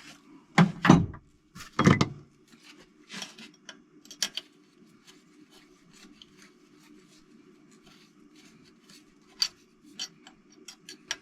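Hand tools working on the bolts of a Toyota 4A-GE engine being tightened to 13 N·m: two louder clunks of handling about a second in, then scattered short metallic clicks of a ratchet and wrench at an uneven pace.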